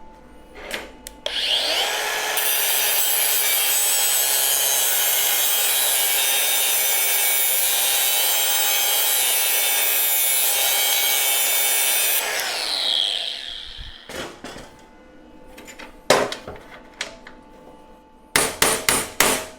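Power grinder spinning up and grinding a small amount off a laser-cut steel part for a better fit, with a steady harsh grinding noise for about ten seconds before it winds down. A few sharp metal clanks follow near the end as the part is handled.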